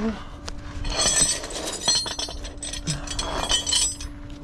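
Small metal objects clinking and jingling together in a quick run of light clicks with a bright ringing, over a steady low hum.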